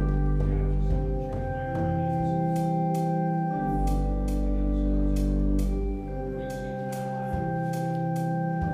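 Organ prelude music: slow sustained chords, the harmony shifting every second or two, with faint regular ticks up high.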